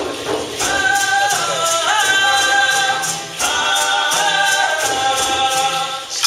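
A group of voices singing long held notes together in two phrases, the pitch stepping up partway through the first. Shaker rattles mark a steady beat of about three strokes a second underneath.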